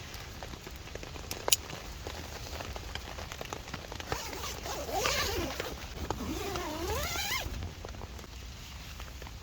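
Rain pattering on a tarp with scattered drips and ticks. From about four seconds in, a wavering whine lasts about three seconds, dipping in pitch and rising again.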